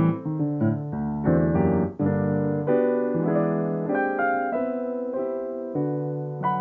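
Solo piano music: slow, held chords that change every second or so.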